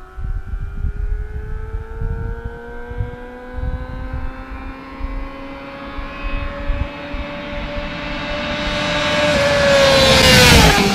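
A 600 cc inline-four supersport motorcycle approaching at high revs, its engine note climbing slowly as it accelerates and growing louder. Near the end it rushes past, and the pitch drops sharply.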